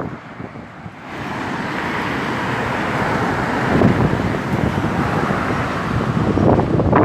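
Strong wind rushing steadily, building about a second in and then holding.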